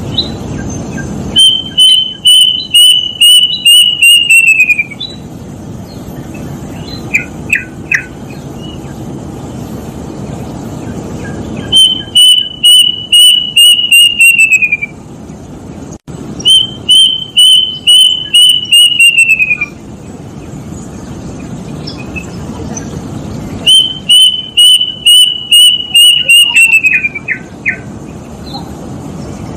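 Plaintive cuckoo (kedasih) singing: four runs of about ten quick whistled notes, each run holding its pitch and then sliding lower at the end. Between runs there are a few short falling notes.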